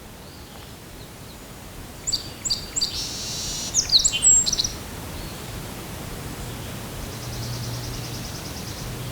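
Wild songbirds calling: a few sharp chirps about two seconds in, a brief burst of song, then a faint fast trill near the end, over a steady outdoor hiss.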